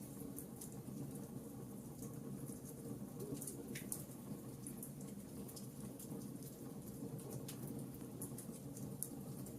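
Wood fire crackling in a fireplace: irregular small pops and snaps, several a second, over a low steady rumble of burning.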